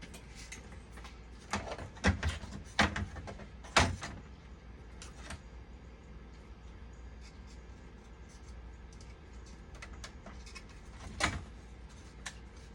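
Sharp clicks and knocks of tools and small parts being handled during an electrical repair: a quick cluster of about five in the first four seconds and a single one near the end, over a low steady hum.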